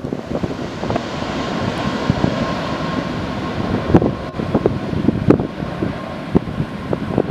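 Jet airliner engines running, a steady rushing noise with a faint whine, while gusts of crosswind buffet the microphone with irregular low thumps.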